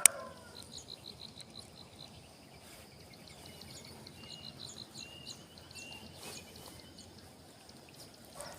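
Faint open-air ambience with small birds chirping: twice a rapid string of short, high pips, and a few brief high whistled notes in between. A sharp click right at the start.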